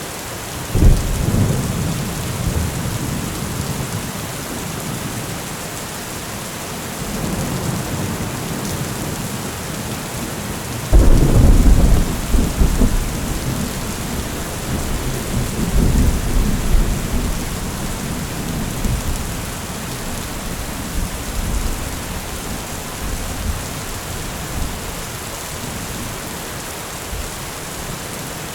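Steady rain falling, with rolling thunder: one clap about a second in that rumbles away, and a louder clap about eleven seconds in that keeps rolling and fading for several seconds, with lighter rumbles between.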